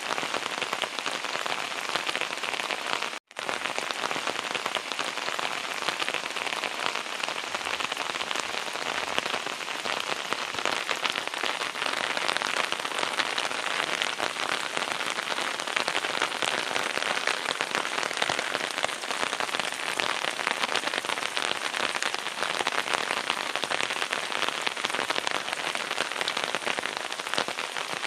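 Steady rain falling and pattering on hard surfaces, a dense even hiss of many drop hits. It drops out for an instant about three seconds in.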